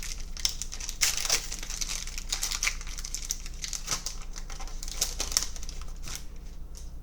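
Foil wrapper of a Panini Prizm football card pack crinkling and rustling as it is torn open and handled, with irregular sharp crackles throughout.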